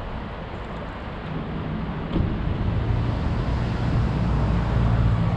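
Road traffic on a town street, with a vehicle's engine rumbling louder and closer from about two seconds in.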